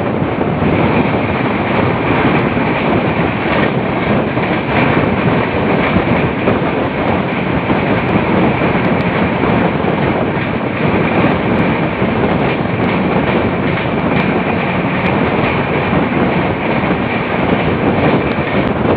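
Train running at high speed on the rails: a steady, loud rush of wheel and rail noise, with a thin high whine through most of it that fades near the end.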